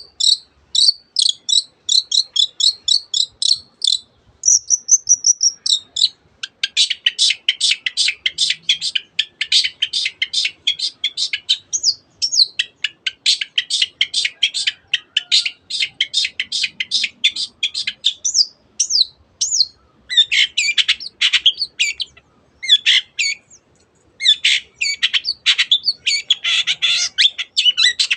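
Long-tailed shrike singing a fast, dense song with mimicked canary and other birds' calls worked in. Rapid runs of high chirps and trills, broken by short pauses.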